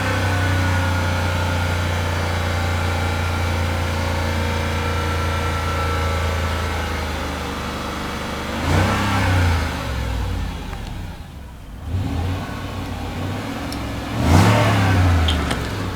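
Supercharged 4.2-litre V8 of a Range Rover Sport held at a raised, steady speed, then easing back toward idle. Two quick throttle blips follow, about nine and fourteen seconds in, each rising in pitch and falling back.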